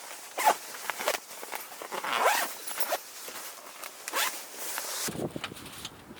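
A zipper being pulled in several short rasping strokes, a longer pull about two seconds in.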